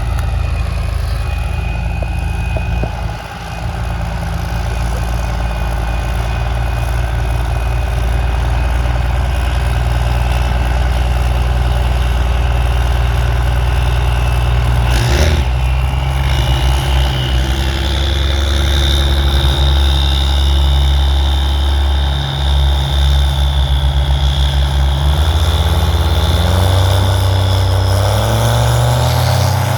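A car engine idling loudly with a deep, steady rumble; about halfway through a high whine joins it, and near the end the engine's pitch climbs as it revs up.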